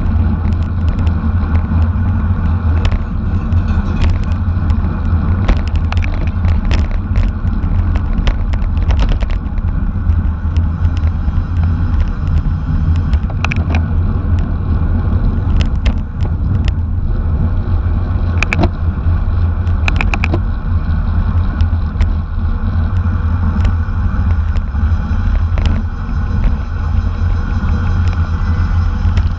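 Steady low rumble of wind and road noise from a bicycle ridden at race speed, picked up by a camera mounted on the bike or rider, with scattered sharp clicks and rattles from the bike.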